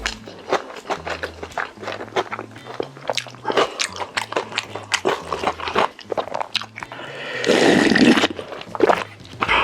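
Close-miked eating sounds: a person biting and chewing food, with many small crisp crunches and wet clicks. About three-quarters of the way through comes a louder, noisier stretch lasting under a second.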